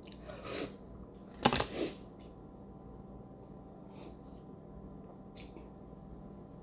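Eating and food-handling noises: two short rustling bursts, about half a second and a second and a half in, then a few faint clicks.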